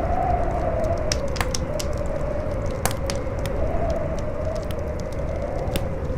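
Campfire crackling with scattered sharp pops, over a strong wind that howls in a wavering tone rising and falling every second or two, with a low rumble beneath.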